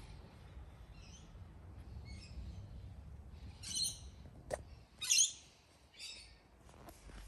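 Birds chirping, several short high-pitched calls about a second apart over a low steady background rumble, with a single sharp click about halfway through.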